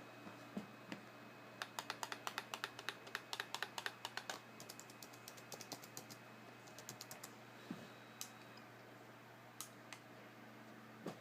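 Laptop keyboard keys being pressed: a quick run of rapid keystrokes, then scattered, slower key presses and a few lone taps near the end, over a faint steady low hum.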